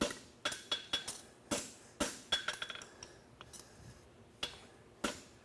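Farrier's hammer striking a steel horseshoe on an anvil, shaping the toe and branch of a double caulkin hind shoe: irregular ringing metallic blows, quick in the first half and fewer toward the end.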